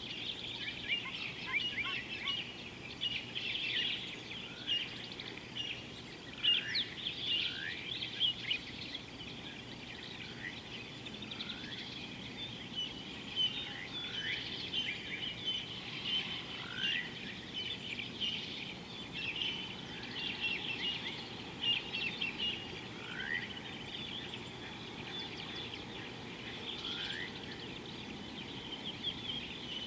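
Wild birds chirping and calling continuously, with a short falling whistle repeated every few seconds, over steady low background noise.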